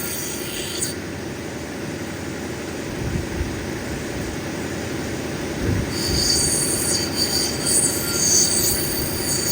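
Cabbing machine running, with an opal being ground against its wheel: a steady motor hum under a high scraping squeal that stops about a second in and comes back about six seconds in, as the stone is lifted off and pressed on again.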